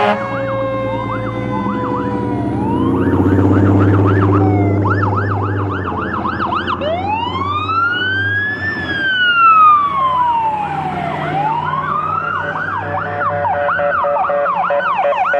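Fire apparatus sirens passing: a slowly falling siren tone gives way to a fast yelp, then a slow rising-and-falling wail, then the yelp again. A heavy truck engine runs loud under the first few seconds.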